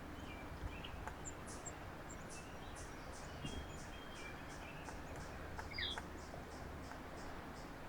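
Small birds calling faintly: a steady run of short, high notes about three a second, with one louder chirp about six seconds in.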